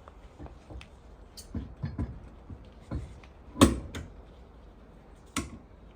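Scattered knocks and metallic clicks of a car wheel being fitted back onto its hub. There is one loud clunk about three and a half seconds in and a sharper knock near the end.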